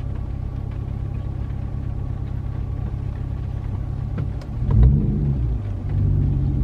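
Pickup truck's engine and road rumble heard from inside the cab, steady and low. About four and a half seconds in, the engine revs up briefly, then settles into a slightly louder run.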